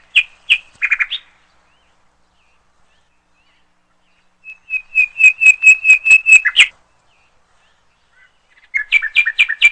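A bird calling in quick series of sharp, repeated chirps at about five a second, in three bouts, the longest in the middle.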